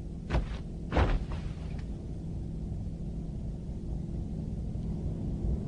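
Two short knocks about two-thirds of a second apart over a steady low rumble.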